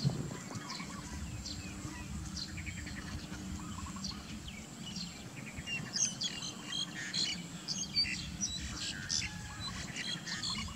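Birds chirping in short, quick calls, coming thick and fast in the second half.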